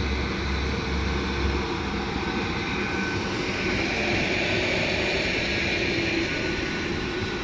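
Hitachi Blues HTR412 hybrid regional train moving off past the platform: a steady rumble of wheels on rail and running gear, with a thin whine over it.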